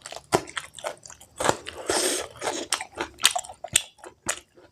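Close-miked chewing of spicy pork curry with rice: wet mouth smacks and sharp clicks in an uneven run, with a longer, noisier chewing stretch in the middle.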